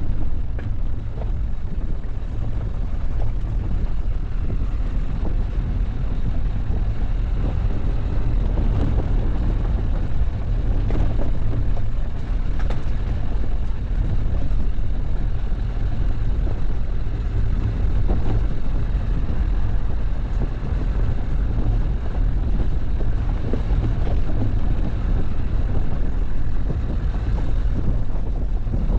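A vehicle driving off-road: a steady low rumble of engine and tyres, with scattered knocks and rattles from the rough track.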